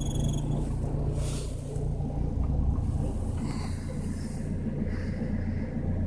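Inside a Citroën Xsara Picasso 2.0 HDi diesel, a steady low rumble from the running car with the heater blower on. A high thin whine, the intermittent heater fan noise, stops about half a second in.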